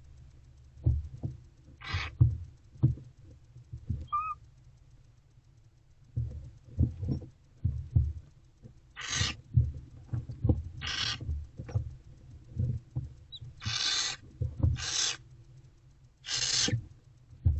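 Barn owlets hissing their rasping begging calls, about half a dozen calls of roughly half a second each. Soft bumps and scuffles come in between as they shift about on the floor of the nest box.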